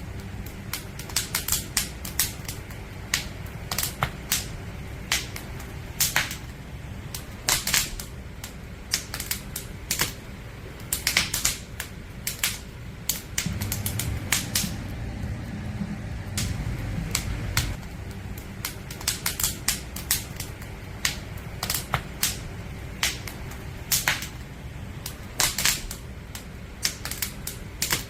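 Firewood burning in a campfire, crackling and popping irregularly over a steady low rumble of the flames. The low rumble swells louder for a few seconds midway.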